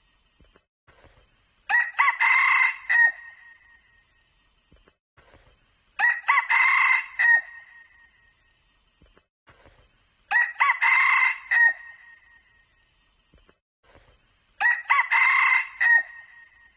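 Red junglefowl cock crowing four times, about four seconds apart, each crow a short clipped call of a second and a half.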